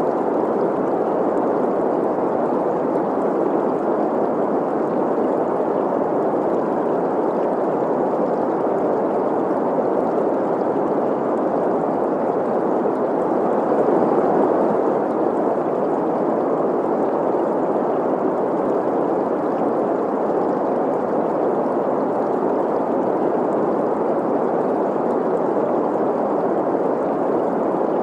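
Steady green noise, a smooth hiss centred in the middle of the range, blended with the flowing rush of a stream; it swells slightly about halfway through.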